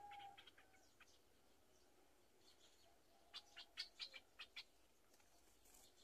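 Faint, short high-pitched bird chirps in quick series, one run in the first second and another cluster about three to four and a half seconds in.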